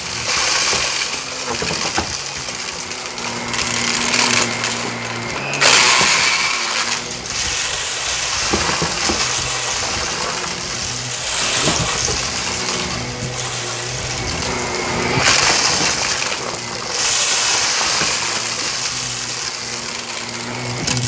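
Shark vacuum cleaner running over carpet: a steady motor hum under a hiss of suction that swells twice, with scattered crunching and rattling clicks as debris is sucked up.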